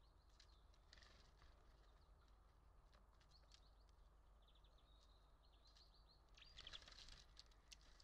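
Faint outdoor birdsong: small birds chirping, with a quick trilled run of ticks near the middle and a louder flurry of chirps near the end.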